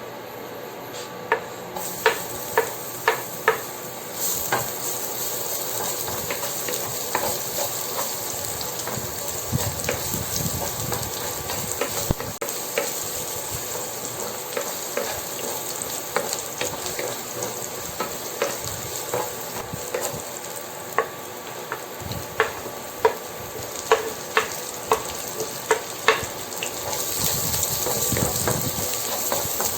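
Food sizzling in hot oil in a pan with a steady hiss, stirred with a utensil that clicks sharply against the pan in quick runs of taps.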